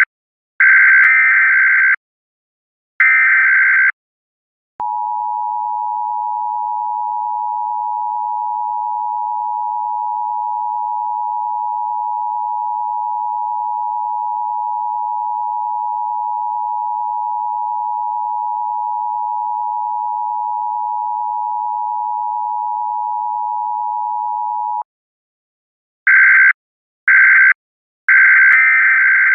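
Electronic tones: a few short beeps at one high pitch, then a steady two-pitch tone held unchanged for about twenty seconds that cuts off suddenly, then a run of short beeps again near the end.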